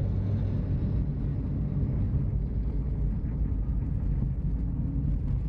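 Steady low engine rumble of a moving vehicle.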